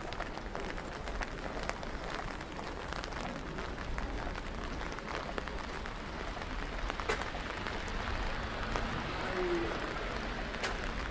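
Steady rain falling on wet pavement: an even hiss with many scattered drop clicks.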